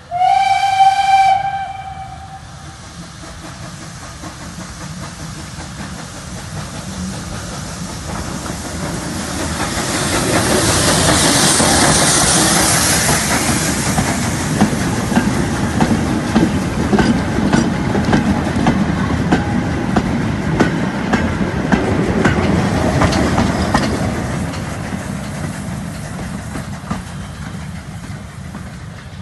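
A steam locomotive gives one short, high whistle blast, then a train passes, swelling to its loudest midway with the wheels clicking over rail joints. It gives a second brief whistle late in the pass, then fades away.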